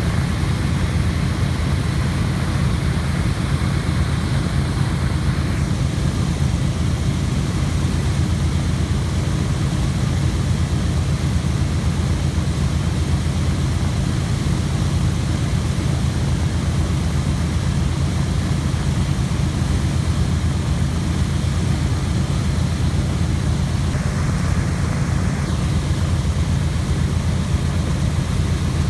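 Boeing B-17 Flying Fortress's four Wright R-1820 Cyclone radial piston engines running at low taxi power, a steady, deep drone of the propellers and engines.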